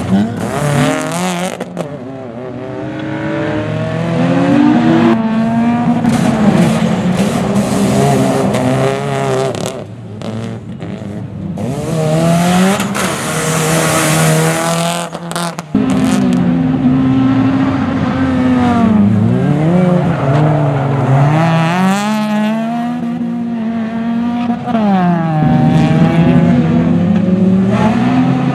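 Rally car engines revving hard, the pitch climbing and dropping again and again with gear changes and lifts off the throttle, with a rush of tyre noise around the middle. The sound changes abruptly about halfway through, as if to another car.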